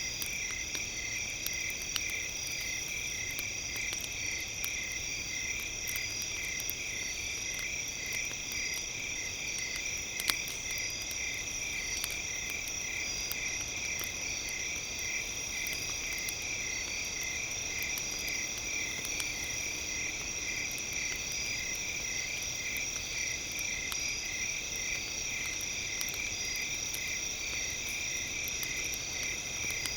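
Campfire crackling in scattered small pops, with one sharper pop about ten seconds in, under a steady high-pitched pulsing trill at several pitches like a chorus of crickets.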